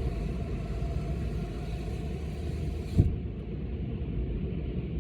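Gale-force wind buffeting the microphone, a steady low rumble, with the lake's surf beneath it; a brief thump about three seconds in.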